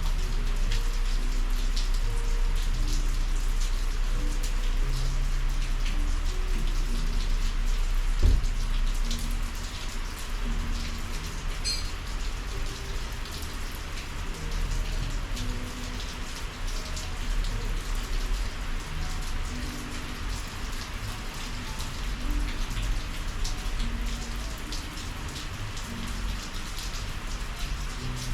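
Steady summer monsoon rain, with many individual drops ticking on surfaces and a low rumble underneath. A single thump sounds about eight seconds in, after which the rain is a little quieter.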